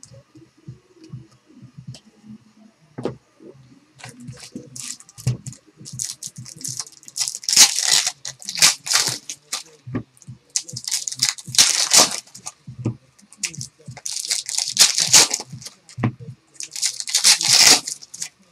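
Trading card pack wrappers being torn open and crinkled by hand, in four rasping bursts after a few seconds of light card handling clicks.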